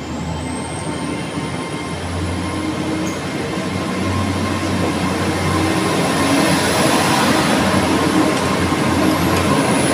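GWR Hitachi Class 802 bi-mode train pulling out and rolling past, its underfloor diesel engines droning. A high-pitched whine climbs in pitch at the start and then holds steady, and the whole sound grows louder as the carriages go by.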